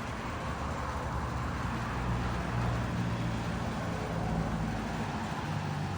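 A steady low rumble with a humming, engine-like tone, swelling a little in the middle and easing near the end.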